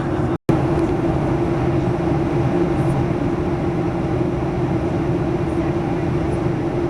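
Steady roar of jet cabin noise inside a Boeing 737-800 in flight: engine and airflow noise with a constant hum, cut by a split-second dropout about half a second in.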